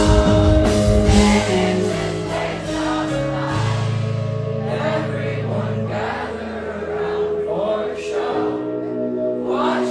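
Live band music: held keyboard chords with singing over them, and a heavy bass that drops out about a second and a half in.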